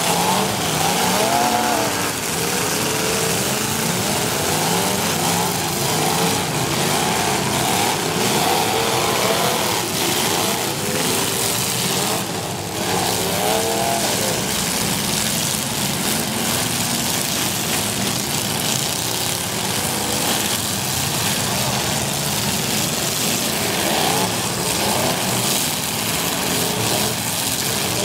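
Several demolition derby cars' V8 engines revving and accelerating at once, their pitches rising and falling over and over, over a dense, steady din.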